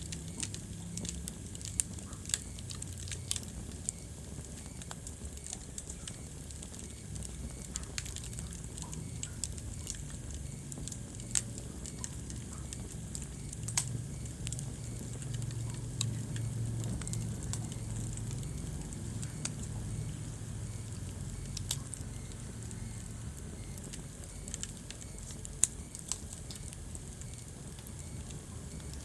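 Wood fire in a fireplace crackling, with sharp pops at irregular intervals over a low steady rumble.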